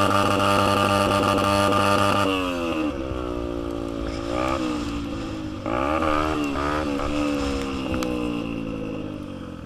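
Dirt bike engine held at high revs, then backing off about two seconds in, with two short rises in revs in the middle and a gradual fade toward the end.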